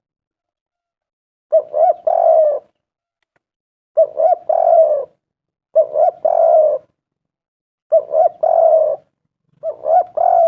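Spotted dove cooing: a three-part call of two short coos followed by a longer rolling coo, repeated five times about every two seconds.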